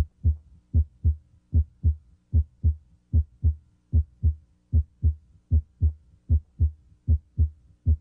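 Normal heartbeat heard through a stethoscope at the mitral area: a steady rhythm of paired low thumps (S1 then S2), about ten beats at roughly 75 a minute. At this spot S1, the closure of the mitral valve, is usually louder than S2.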